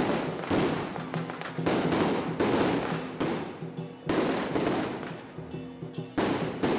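Firecrackers going off in repeated loud crackling bursts over music playing.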